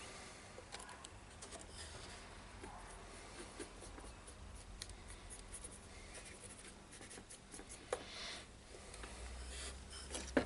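Faint scratchy rubbing with small ticks: a brush or swab scrubbing flux off freshly soldered joints on the radio's circuit board.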